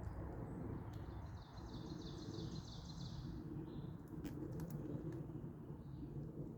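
A songbird sings a rapid high trill of repeated notes lasting about two seconds, over a steady low outdoor rumble. A few sharp clicks follow near the end.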